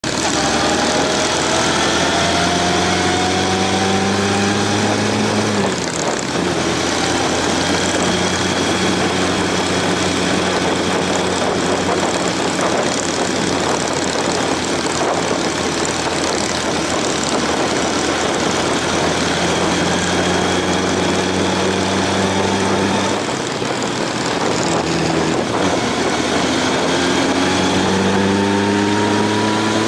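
Honda CB750 inline-four engine under way, with wind rush. Its pitch climbs for the first several seconds, drops sharply at an upshift, then holds steady while cruising. It climbs again near the end and drops at another shift.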